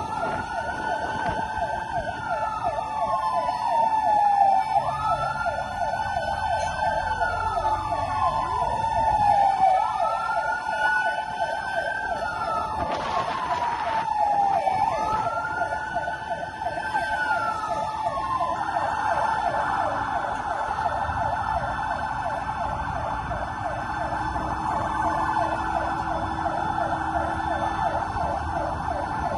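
Fire truck sirens: a rapid warbling yelp runs under a slow wail that rises and falls about every five seconds, four times. About two-thirds of the way through, the wail gives way to a steady higher tone. There is a brief burst of noise about 13 seconds in.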